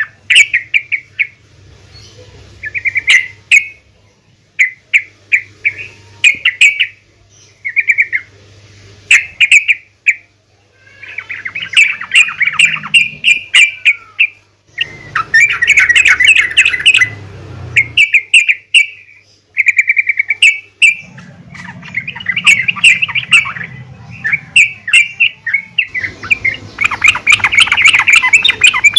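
Female yellow-vented bulbul (trucukan) calling: series of short, clipped chirping notes that break at times into longer bouts of rapid chattering.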